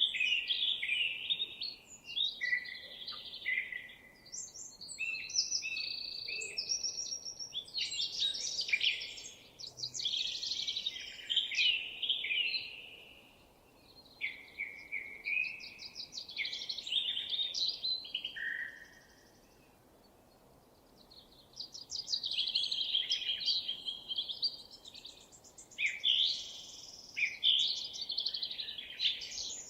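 Songbirds singing in bursts of varied, rapid warbling and trilled phrases broken by short pauses, over a faint steady background hiss.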